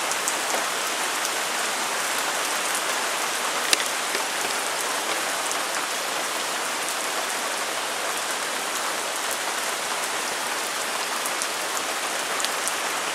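Thunderstorm rain falling steadily, with a single sharp tap about four seconds in.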